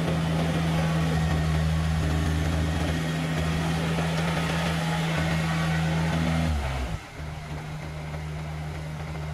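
Kubota tractor's diesel engine running steadily under high throttle, dropping sharply in level about seven seconds in and then running on more quietly.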